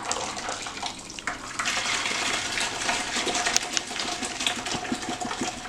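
Blended green tomatillo and chile sauce pouring through a strainer into a pot of chicken broth, a steady splashing rush of liquid with small ticks.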